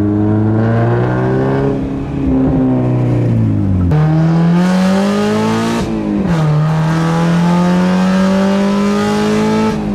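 Car engine with its muffler cut off, running loudly as it accelerates: the engine note rises, then drops suddenly about four seconds in, again about six seconds in and near the end, like gear changes under throttle.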